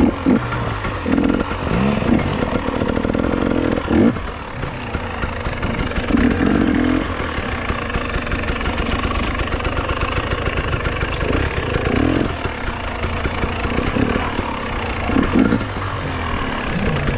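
KTM two-stroke enduro motorcycle engine revving up and down off-road. Its pitch repeatedly climbs and drops as the throttle is opened and closed.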